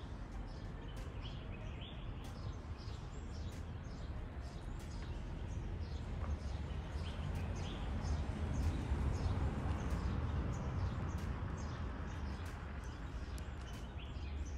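Many small birds chirping with short, high calls, over a steady low rumble of background noise that swells in the middle.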